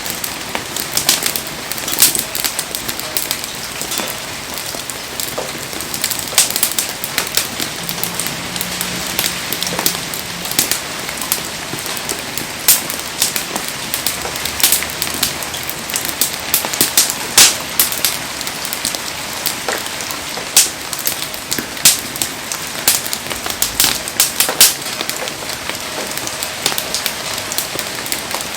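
Heavy rain falling with a steady hiss over a wood campfire crackling, with frequent sharp pops scattered throughout.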